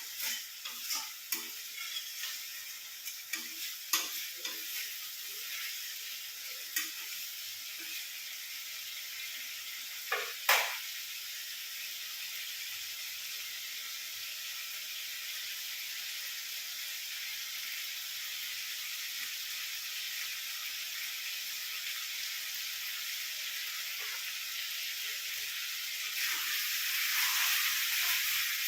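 Chicken sizzling as it fries down in mustard oil in an uncovered pan, the gravy nearly dried, a steady hiss. A spatula scrapes and knocks against the pan during the first ten seconds or so as the chicken is stirred to keep the spices from burning, with one louder knock about ten seconds in. The sizzle grows louder near the end.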